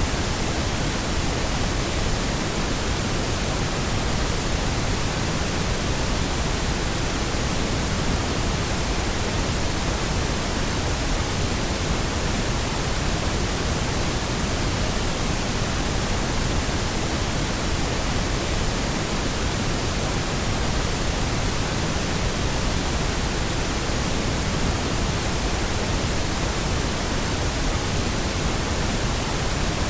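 Steady, unchanging pink noise: an even synthetic hiss spread across all pitches.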